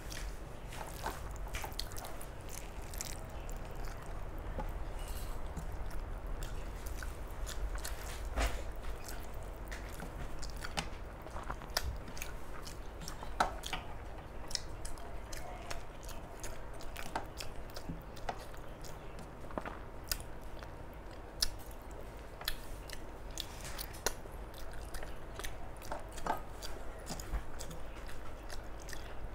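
A person eating a rice meal close to the microphone: chewing with many irregular small mouth clicks.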